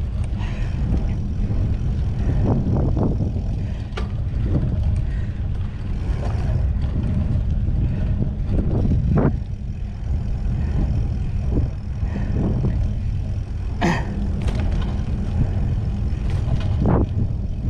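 Steady low rumble of wind buffeting the microphone on a moving mountain bike, with scattered knocks and a couple of sharp clicks.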